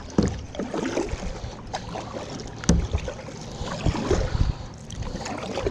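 Kayak on a flowing river: water splashing and sloshing around the hull and paddle, with a few irregular knocks, one sharper near the middle.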